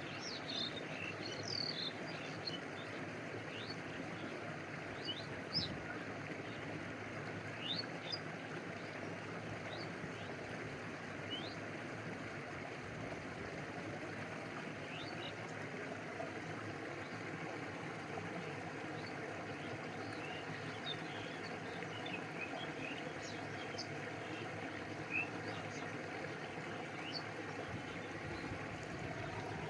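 Steady rushing of a stream with water lapping and a small waterfall behind it. Short high bird chirps come and go over the water, most often in the first dozen seconds and again near the end.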